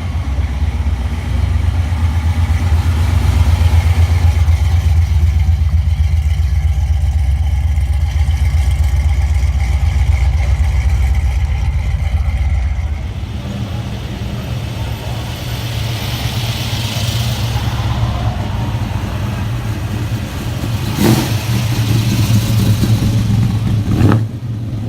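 Car engine running with a deep, loud low rumble that drops away about halfway through, leaving a lighter engine sound. Two sharp bangs come near the end.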